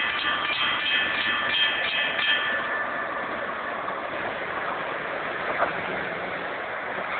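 Passenger train rolling past a level crossing, a steady rumble and rush of wheels on rails. Over it the crossing's warning bells ring in a regular beat, stopping about two and a half seconds in, while the train noise carries on.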